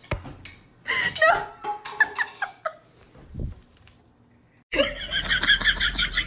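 A person laughing in short, broken bursts. About four and a half seconds in, a louder, rapidly pulsing sound starts abruptly, at about five or six pulses a second.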